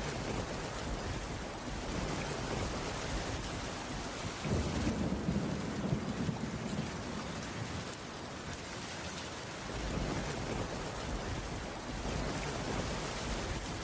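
Steady rain falling on a wooden cabin roof, with a low rumble that swells about four seconds in and fades a few seconds later.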